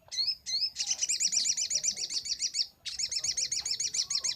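Ruby-cheeked sunbird (sogok ontong) singing: two short rising chirps, then two long, rapid, high-pitched trills of repeated notes with a brief break between them.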